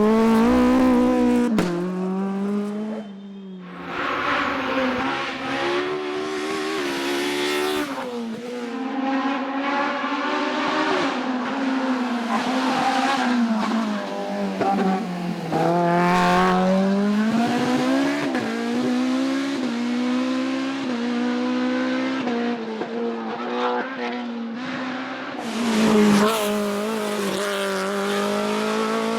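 Hillclimb racing car engines revving hard, their pitch climbing and dropping again and again through gear changes, with some tyre squeal. Several cars follow one another, with abrupt changes about three seconds in and near the end.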